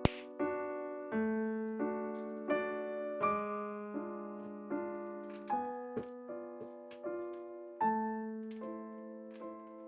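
Background solo piano music, a lively tune of short notes each struck and then fading. A sharp click right at the start and another about six seconds in.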